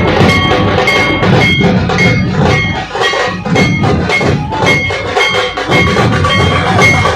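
A dhol pathak drum troupe playing: many dhol drums beaten together in a loud, dense rhythm, with a short high ring repeating about twice a second.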